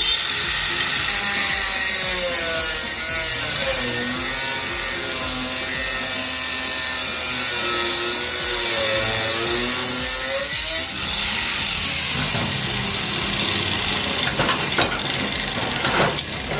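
An electric power tool cutting or grinding metal in steady continuous use. Its motor pitch sags under load for several seconds in the middle and then recovers, and a few sharp clicks and knocks come near the end.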